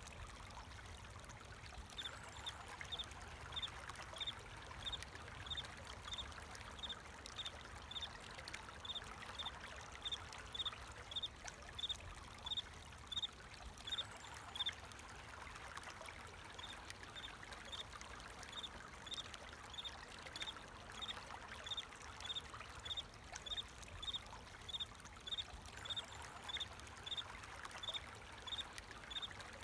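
A cricket chirping steadily, about two short high chirps a second, with a brief pause about halfway through. Behind it is the constant trickle of flowing water.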